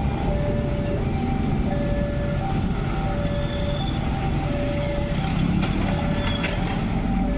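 Indonesian railway level-crossing warning alarm sounding its alternating two-tone signal, a higher and a lower tone of about half a second each repeating evenly, the sign that a train is approaching and the barriers are down. A low rumble of road traffic runs underneath.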